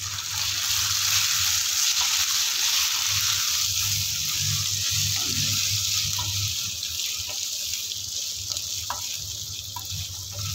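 Green peas sizzling in hot oil in a frying pan, just added and stirred with a wooden spatula. The hiss builds in the first second, is strongest over the first few seconds and then eases gradually, with a few faint ticks.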